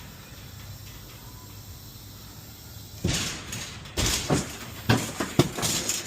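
A few quiet seconds, then a run of loud knocks and clattering bangs, about five hits over the last three seconds, like hard gear being handled and set down.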